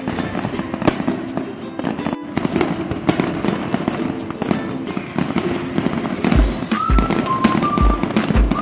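Fireworks crackling and popping in quick, irregular cracks over background music. About six seconds in, a deep, regular drum beat and a melody come in.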